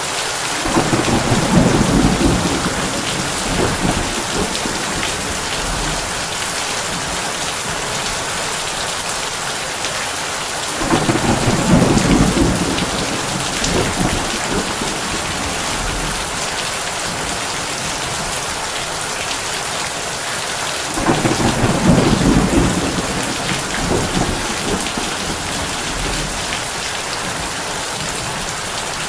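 Heavy rain drumming steadily on a tin roof, with thunder rumbling low three times, about ten seconds apart, each roll lasting a few seconds.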